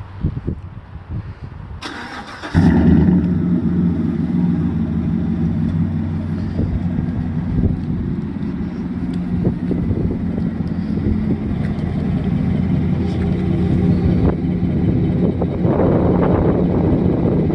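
Chevrolet Silverado 1500's 5.3-litre V8 with a Borla ATAK cat-back exhaust being started: a brief crank about two seconds in, then it fires loudly and settles into a steady idle. The engine is already warm, so this is not a cold start.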